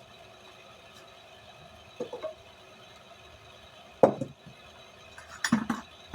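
Metal clanks and clatters of blacksmithing tools and steel stock being handled: a short clank about two seconds in, the loudest sharp clank about four seconds in, and a quick cluster of clanks near the end, over a faint steady hum.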